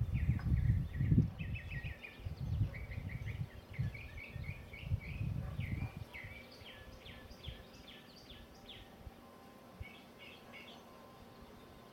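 Small birds chirping in quick runs of short, repeated high notes, thinning out after about seven seconds with a last few chirps near the end, over an irregular low rumble that dies away about halfway through.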